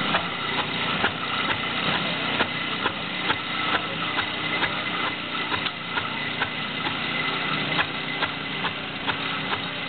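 Small old tractor engine running steadily at low speed, with a sharp regular knock a little over twice a second.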